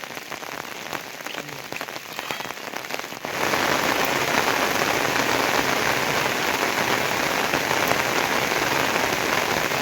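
Rain falling, with individual drops heard hitting a surface; about three seconds in it suddenly gets louder and denser, a steady heavy downpour.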